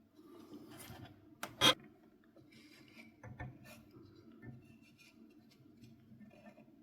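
Workbench handling noise: a brief rubbing, then two sharp clicks about a second and a half in and a few softer clicks a couple of seconds later, over a low steady hum.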